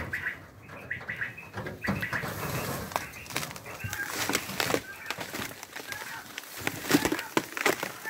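Recorded bird calls played from a poachers' electronic decoy caller through a horn loudspeaker, short calls repeating over and over. Rustling and sharp knocks come from people climbing over a wire fence.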